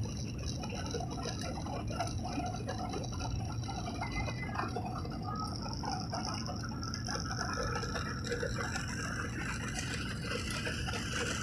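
Steady drone of an airliner's engines and airflow, heard from inside the passenger cabin.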